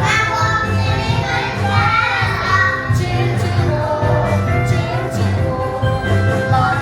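Young children singing along to an upbeat backing track with a steady bass beat.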